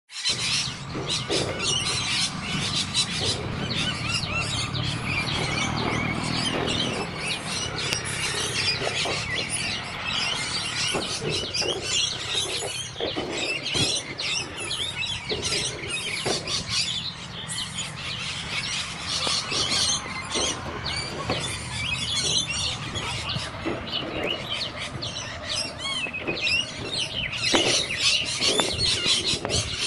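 Captive birds chirping and calling in a dense, continuous stream of short overlapping chirps.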